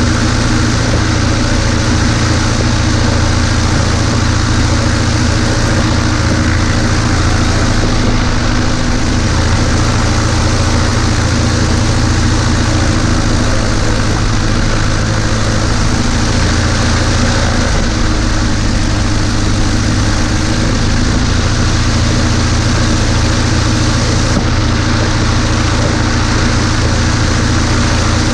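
Cessna 140A's piston engine and propeller running steadily, a loud, even drone heard from inside the small cockpit.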